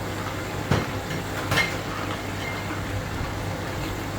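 Stir-frying in a metal wok over a steady low hum. The spatula strikes the pan sharply twice, a little under a second in and again about a second later.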